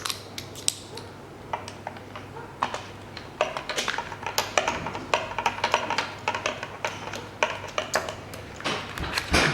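Small metallic clicks and taps as new iridium spark plugs are handled and touched with a magnet to test the electrodes; sparse at first, then a quicker run of clicks from about three seconds in.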